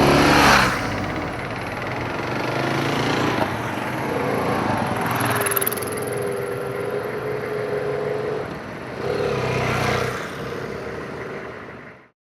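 Motorcycle engines running, swelling and fading a few times, with a hum that holds a steady pitch for a few seconds in the middle. The sound cuts off abruptly near the end.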